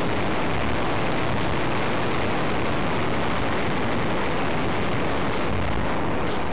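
A loud, steady rushing noise with no clear tone in it, much like wind blasting across a microphone.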